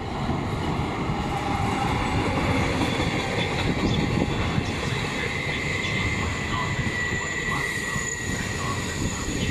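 Trenord regional passenger train passing close by, its coaches rumbling steadily over the rails. From about halfway through, a thin, high squeal sounds over the rumble.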